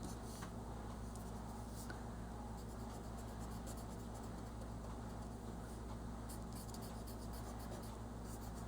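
Faint quick scratching of colouring strokes on paper, going on steadily over a low steady hum.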